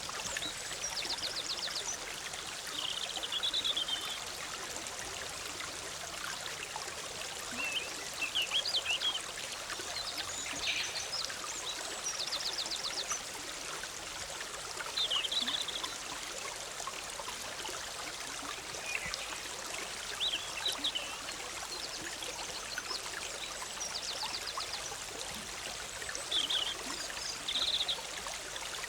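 Forest stream bubbling steadily, with small birds calling over it: a short, fast, high trill and short warbled phrases repeating every few seconds.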